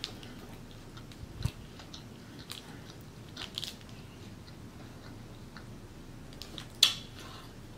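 Close-miked chewing of a mouthful of burger, with scattered small wet smacks and clicks from the mouth; one sharper click near the end stands out.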